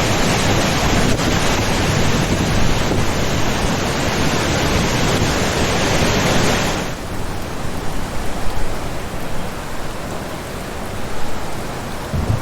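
Loud, steady rush of water in a heavy rainstorm. About seven seconds in it cuts abruptly to a quieter, duller rain sound with a few low swells.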